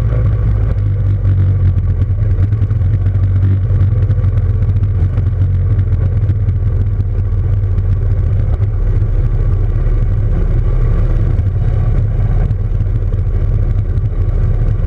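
Motorcycle engine running steadily at a fairly even speed.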